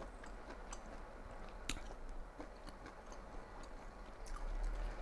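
A person chewing food close to the microphone, with scattered small wet clicks of the mouth.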